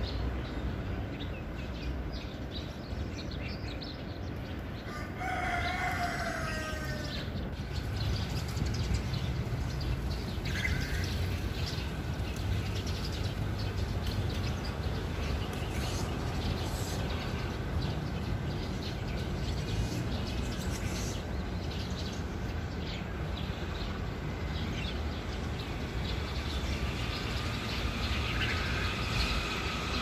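A bird calls once for about two seconds, about five seconds in: a long pitched call that falls at the end. Shorter bird calls follow, one about ten seconds in and more near the end, over a steady low rumble of outdoor background noise.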